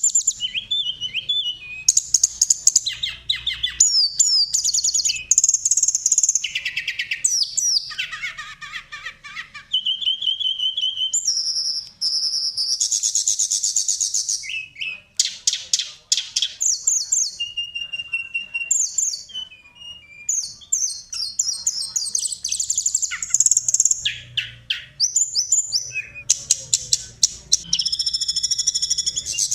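A compilation of recorded songbird songs and calls, many species overlapping: rapid chirps, fast trills and short whistled notes follow one another without a break. It is masteran, a bird-song track for teaching caged songbirds to sing.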